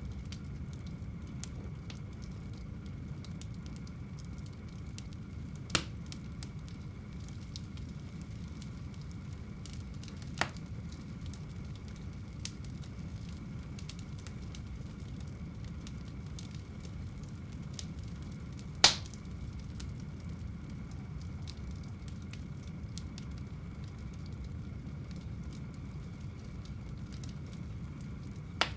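Wood fire burning in a home fireplace: a steady low rush of flame with faint crackling and a few sharp pops, the loudest about two-thirds of the way through.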